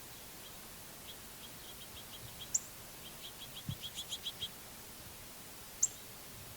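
Small songbirds calling: a run of short chip notes that come quicker and closer together from about a second in until halfway through, with two brief, sharper high chirps standing out, the louder one near the end. A faint steady outdoor hiss lies under them.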